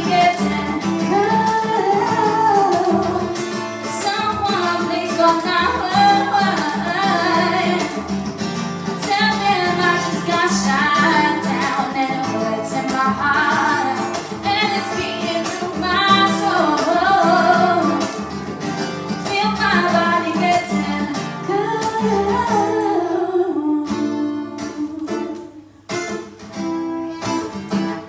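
A song sung to acoustic guitar. The voice stops a little over 20 seconds in, leaving the guitar playing on alone and more quietly.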